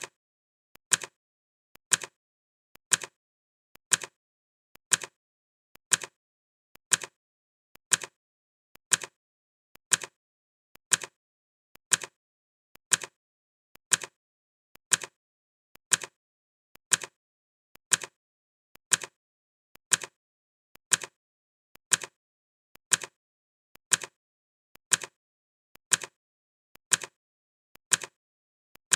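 Clock ticking sound effect: a sharp tick once every second, evenly spaced.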